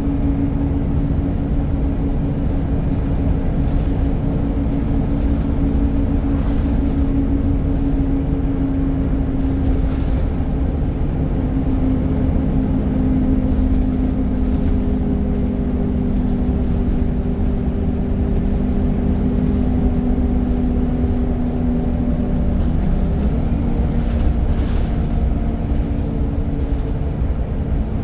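Scania N94 single-deck bus's diesel engine heard from on board while the bus is under way. The engine note shifts pitch about 11 seconds in and again near the end.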